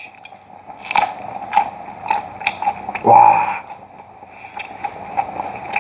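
Loud, crisp crunching of a raw green chili pepper being chewed with the mouth close to the microphone, a crunch about every half second.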